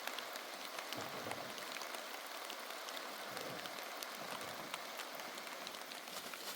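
Heavy rain falling steadily, a continuous hiss with many small drop impacts ticking through it.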